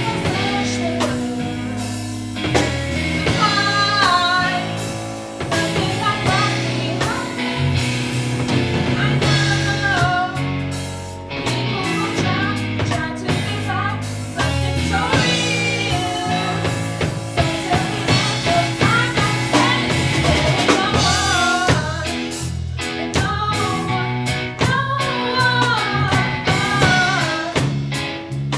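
A pop song performed with singing over drums and guitar, the vocal melody wavering and sliding between notes.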